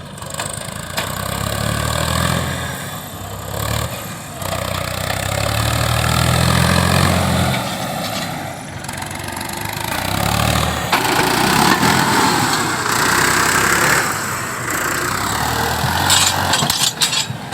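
Diesel engine of earthmoving machinery working under changing load, its note swelling and falling back several times. A coarse rushing noise joins in from about the middle.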